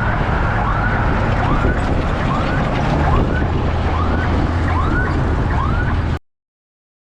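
Heavy vehicle engine rumbling, with a short rising chirp-like tone repeating about every two-thirds of a second over it; everything cuts off suddenly about six seconds in.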